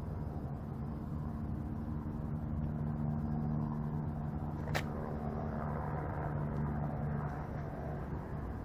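Steady low hum of motor vehicle engines, with a single sharp click about five seconds in.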